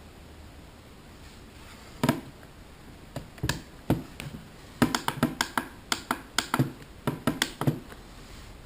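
RC servo chattering at its neutral (1.5 ms) signal with no stick input: irregular short clicks and brief buzzes, about a dozen of them, starting about two seconds in. The servo is jittering instead of holding still.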